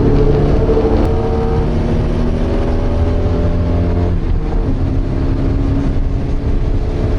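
Porsche 924's 2.0-litre four-cylinder engine under load, heard from inside the race car's cabin, climbing slowly in pitch for about four seconds before dropping to a lower note, as at a lift or gear change.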